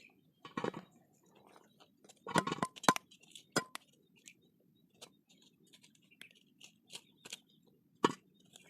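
Irregular clicks, knocks and scrapes on the hard shell of a broken wood apple as its pulp is scooped out, with a louder cluster of knocks between two and three seconds in and a sharp knock near the end.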